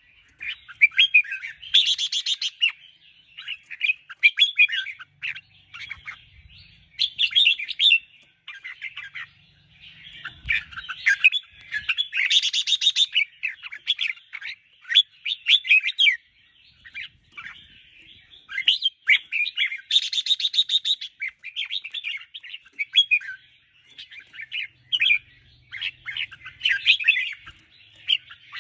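Red-whiskered bulbul singing a run of chirping, warbling phrases, broken a few times by harsher, buzzier notes.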